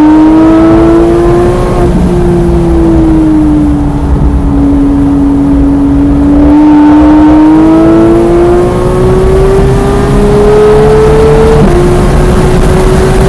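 Porsche 991.1 GT3's naturally aspirated flat-six engine at high revs on track: the pitch climbs, eases off for a few seconds, then climbs steadily again, with a sudden short drop in pitch near the end.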